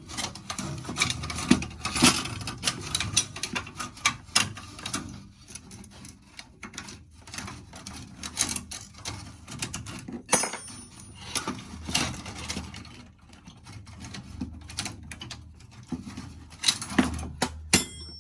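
Irregular metal clicks, knocks and scrapes as the burner assembly of a gas water heater is worked loose and pulled out.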